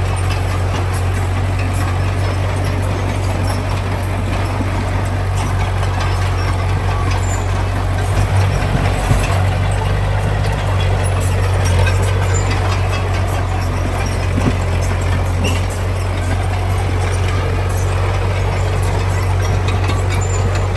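Heavy diesel engine of earthmoving machinery running steadily with a strong low hum. A few light knocks come through around the middle.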